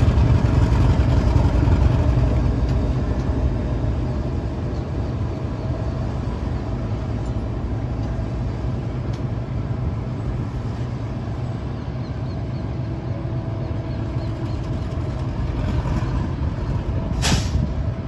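Diesel-electric freight locomotive engine running with a steady low drone that eases slightly in loudness over the first few seconds. A short, sharp hiss of released air, typical of a locomotive's air brake, comes near the end.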